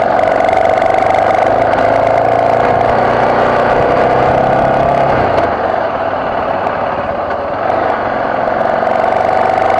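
BMW F650GS motorcycle engine running under way, holding a steady note, then dropping off about halfway through as the throttle eases and rising again near the end.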